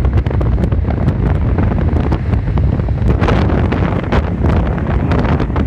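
Storm wind buffeting the microphone: a loud, gusty low rumble with crackling.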